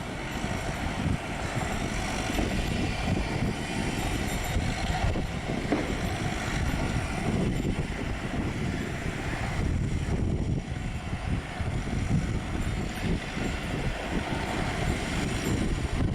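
Boeing 737's twin jet engines running at takeoff power: a steady, deep rumble.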